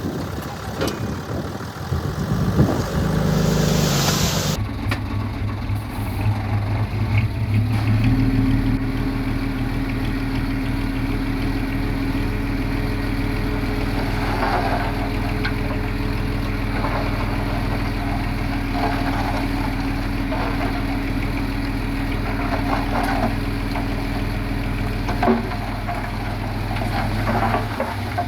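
Heavy diesel engine of earthmoving machinery running steadily at a constant pitch, with a few faint clanks. A loud rushing noise in the first few seconds cuts off suddenly.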